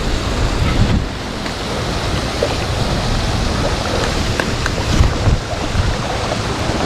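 Creek water rushing steadily, with wind buffeting the microphone.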